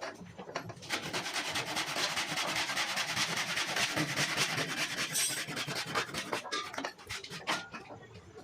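Fast, even rubbing strokes, a sanding-like scraping over a surface. They start about a second in and thin out after about six seconds.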